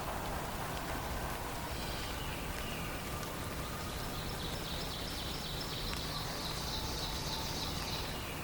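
A songbird singing a high, rapid trill lasting about four seconds in the second half, over a steady hiss of forest ambience with rain-like noise.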